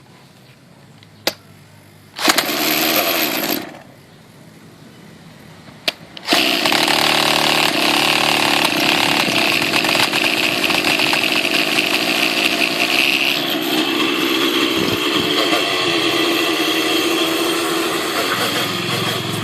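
Nitro two-stroke engine of a T-Rex 700 radio-controlled helicopter: a short burst of running that cuts off after about a second and a half, then a few seconds later it starts again and keeps running steadily at a slightly high idle, below clutch engagement, to warm up.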